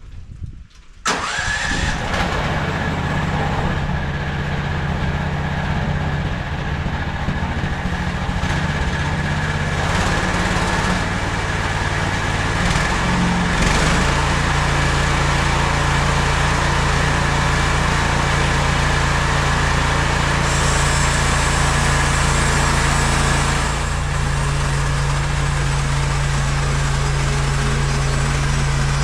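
MechMaxx SM32 bandsaw mill's petrol engine starts abruptly about a second in and then runs steadily under throttle, with a bright hiss over the engine note. The engine note shifts about halfway through, and the hiss eases off near the end while the engine keeps running.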